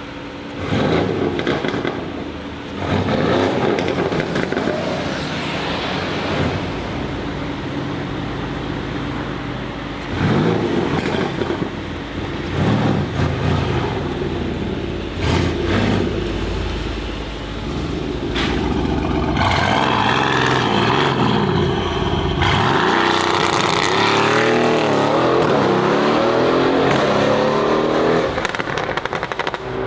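Mercedes-AMG GLC63 S twin-turbo V8 revving and accelerating hard, its pitch climbing and dropping several times, with sharp exhaust pops and crackles in between.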